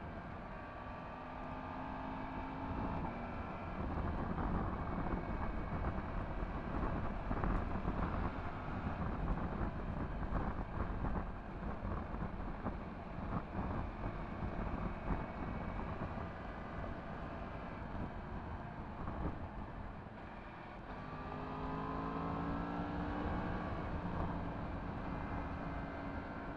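Yamaha MT-10 SP's crossplane inline-four engine running through an Akrapovic exhaust, heard while riding. Through the middle stretch its note is buried under a heavy rush of wind and road noise, and about 21 seconds in its pitch climbs clearly again as the bike accelerates.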